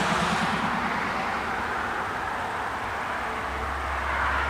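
Steady road-traffic noise, with a low rumble joining about three and a half seconds in.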